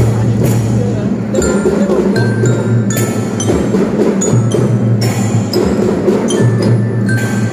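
Children's drum band playing: drum strikes keep the beat while bell lyra (marching glockenspiel) notes ring out above sustained low notes.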